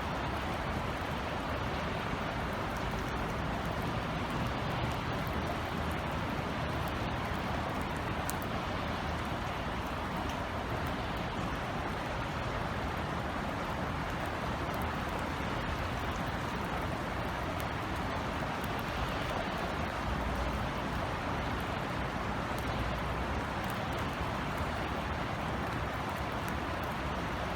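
Steady summer drizzle: an even hiss of rain with scattered faint drop ticks, over a low rumble of city traffic.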